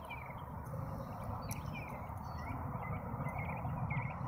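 Faint, scattered bird chirps over a low, steady background rumble.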